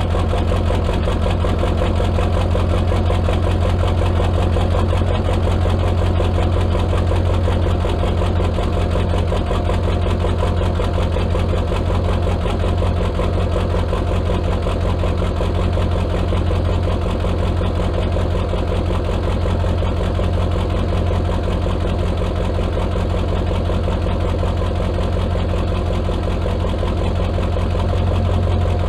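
1997 Ford F350's 7.3 Powerstroke V8 turbo-diesel idling steadily, with a low, even hum and a rapid diesel clatter that holds constant throughout.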